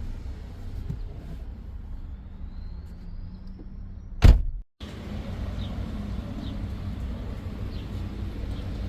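Car's low steady hum, broken about four seconds in by a single loud thump and a brief total dropout; afterwards the steady hum resumes with faint high chirps over it.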